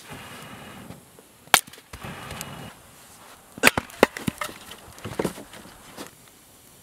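Firewood being broken or split for a campfire: several sharp wooden cracks, with stretches of scraping and rustling between them in the first few seconds.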